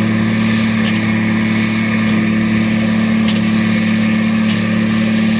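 Fendt 936 Vario tractor's six-cylinder diesel running steadily under load, powering a Claas Quadrant 5300 FC large square baler. A faint tick comes about every second and a quarter.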